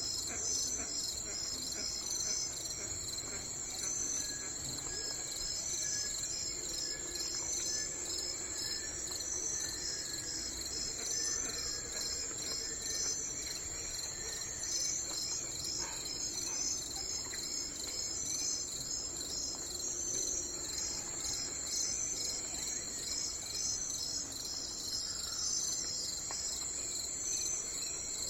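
Steady, high-pitched insect chorus with an even pulsing rhythm, with faint bird chirps now and then.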